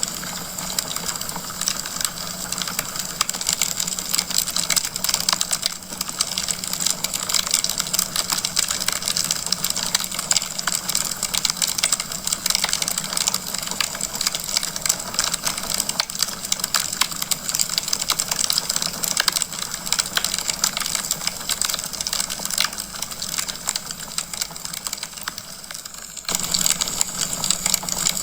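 Wood fire burning in a fireplace, a dense, continuous crackle and popping over a steady hiss and a low hum. Near the end it dips briefly, then resumes slightly louder.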